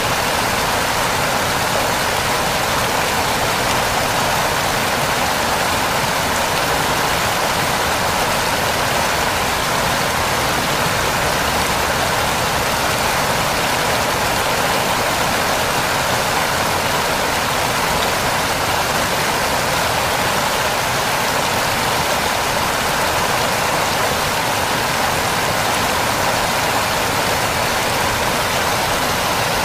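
Waterfall: falling water rushing steadily, an even roar with no breaks.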